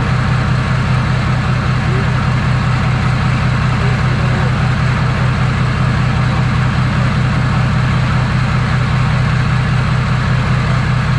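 Ford Powerstroke diesel V8 engine in an F-250 idling steadily, with a deep, even hum and no change in speed.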